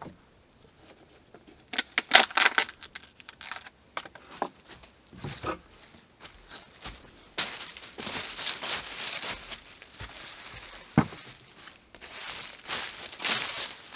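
Bursts of rustling and crinkling handling noise, with one sharp knock about eleven seconds in.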